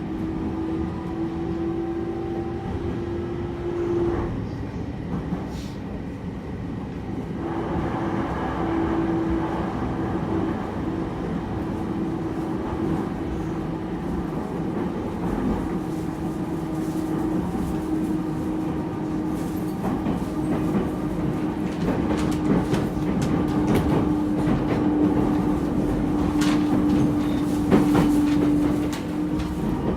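JR East E231 series 0 commuter train running, heard from inside the car. There is a steady rumble with a constant drive tone that drops out about four seconds in and comes back about three seconds later. The wheels clack over rail joints, more often in the second half.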